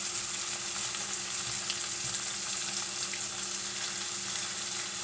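Food frying in hot oil in a pan: a steady sizzle with scattered small pops of grease.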